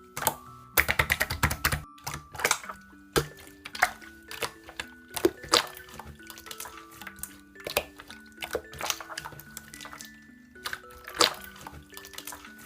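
Slime being squished and poked by hand, making wet clicks and pops, with a rapid run of crackles about a second in. A simple background melody plays underneath.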